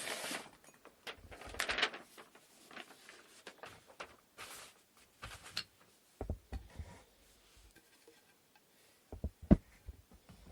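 Wooden inkle loom parts being worked by hand: a few short rasping or rustling strokes, then soft knocks and one sharp wooden clack near the end as pieces are handled and set down.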